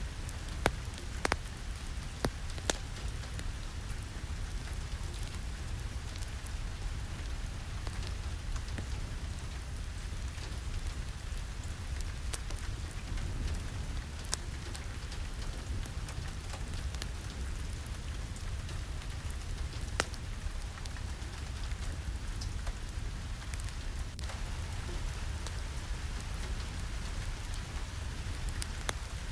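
Steady rain falling, a constant hiss over a low rumble, with scattered sharp clicks of drops throughout.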